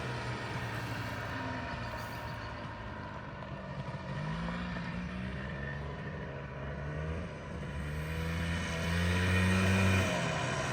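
1995 Polaris Trail Boss 250 ATV's single-cylinder two-stroke engine running under way, its pitch climbing about four seconds in. It is loudest just before the throttle is let off near the end.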